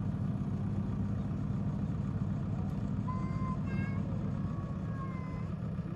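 Diesel engine of a JCB 116D vibratory road roller running steadily, a constant low hum.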